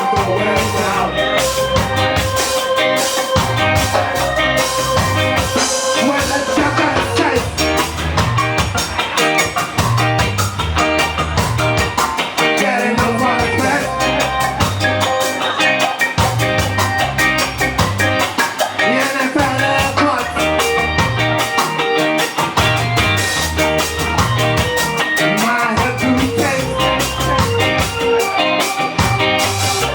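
Live ska band playing: drum kit and guitar over a steady beat.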